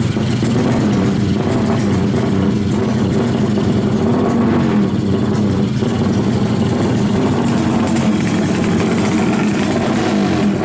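Yamaha RX-King two-stroke single-cylinder engine, fitted with a 'kimcil' magneto, running steadily at a fast idle with small wavers in pitch.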